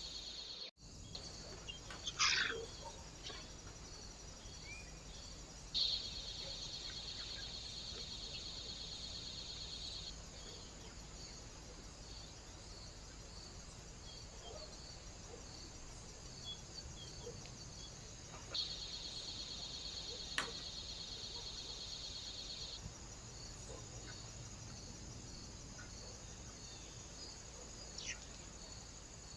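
Faint outdoor ambience from a trail camera at a bird feeder: a low hiss with a few short bird calls, one about two seconds in and one near the end. A steady high-pitched buzz comes in twice for about four seconds each time, and there is a single sharp click in the second stretch.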